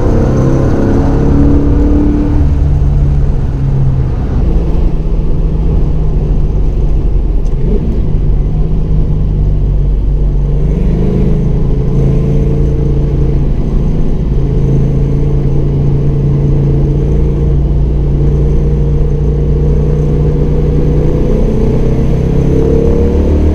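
A road-going muscle car's engine running hard at speed, a loud steady drone whose pitch dips and climbs a few times as it shifts gear, climbing again near the end.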